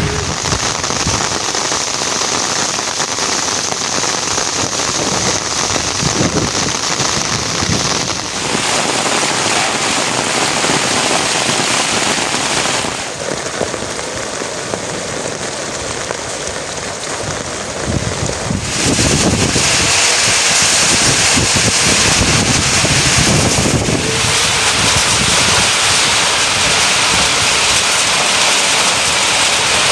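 Rain falling steadily, a dense hiss of drops. Its sound changes abruptly a few times as the recording cuts between places, with some low rumbling from wind on the microphone.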